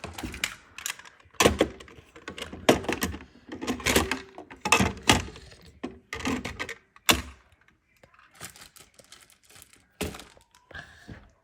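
A run of irregular knocks, thuds and clicks, like hard objects being handled and set down. They are loudest and densest in the first seven seconds, then thin out into fainter clicks.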